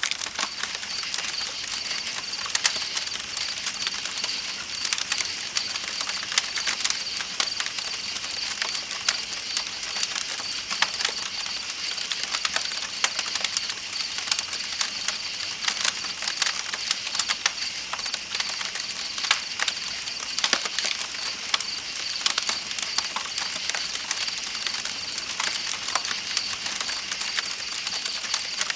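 Campfire crackling with frequent sharp pops, over a steady high chirring of night insects and the soft, even rush of flowing river water.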